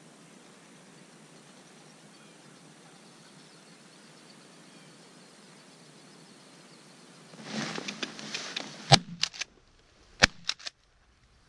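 Faint field hiss, then rustling as the hunter moves in the layout blind, then sharp cracks about two-thirds of the way in: shotgun shots at ducks, the two loudest about a second apart, each followed by smaller clacks.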